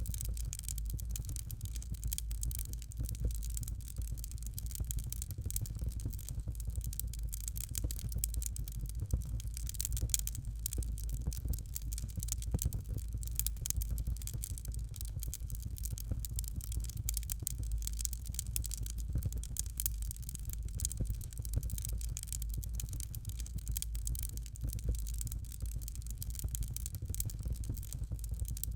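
Fire in a fireplace crackling steadily: a dense scatter of small, sharp pops over a low rumble.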